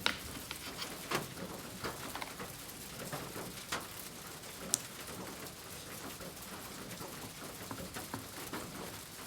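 Oil pastel crayon scratching and rubbing on kraft paper in short, uneven strokes, with a sharp tap about five seconds in.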